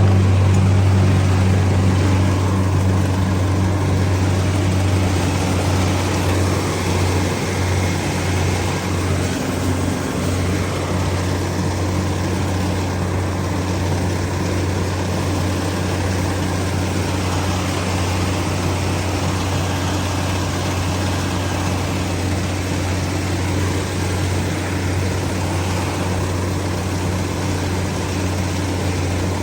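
Engine of a rice-harvesting machine running steadily with a low hum, wavering briefly about a third of the way in.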